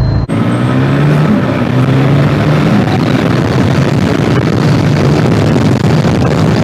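Yamaha FZ25 single-cylinder motorcycle engine running under way, its pitch stepping up and down, with heavy wind rush. It cuts in suddenly just after the start.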